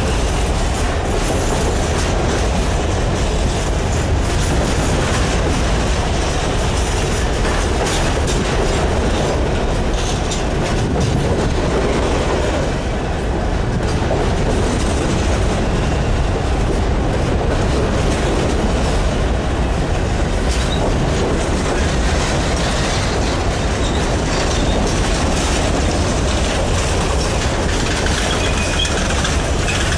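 Freight train of coal hopper cars rolling steadily past close by: a continuous rumble of steel wheels on rail with frequent clicks from the track. A few faint high squeaks come near the end.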